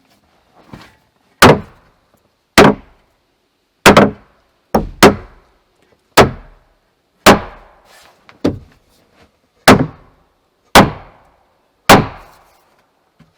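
Hammer striking wood in a steady series of about ten heavy blows, roughly one a second, with a couple of lighter taps between, each blow ringing briefly.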